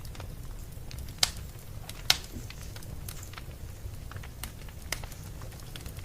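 Wood fire crackling: scattered small pops and clicks over a low steady rumble, with two sharper, louder pops about one and two seconds in.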